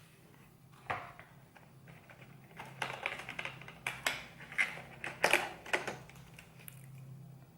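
Plastic packaging and box contents being handled: irregular clicks, taps and crinkles, sparse at first, then a denser, louder flurry in the middle, as the mini drone is taken out of its box.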